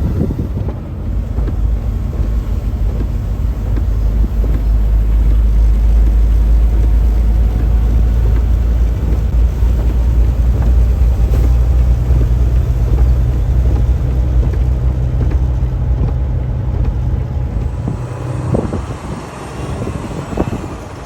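Steady engine drone and road rumble heard inside a pickup truck's cab as it tows a trailer along a snow-covered highway; the low rumble eases off near the end.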